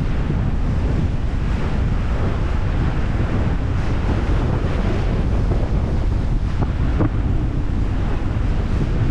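Wind buffeting the microphone, with steady rushing water and wash from a moving cruise boat.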